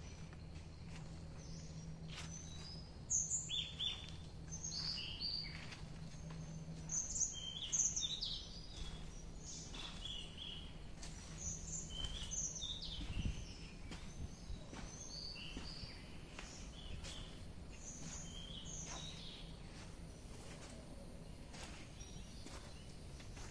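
Several forest birds chirping and calling in short, high phrases, busiest in the first half and thinning out later, over a low steady hum.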